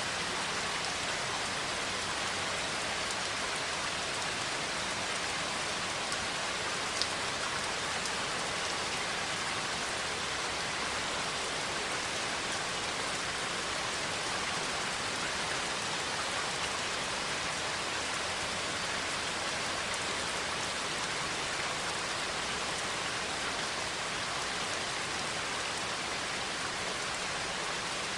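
Steady rain falling, with one small sharp tick of a drop about seven seconds in.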